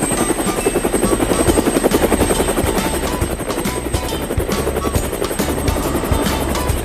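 Cartoon vehicle sound effect: a rapid, steady chopping whir, with background music under it.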